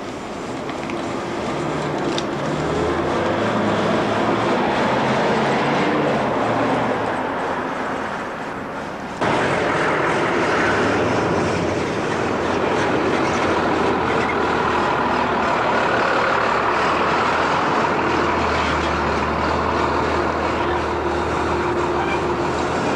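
A vehicle's engine running steadily, its low hum shifting in pitch over the first few seconds; the sound jumps abruptly louder about nine seconds in.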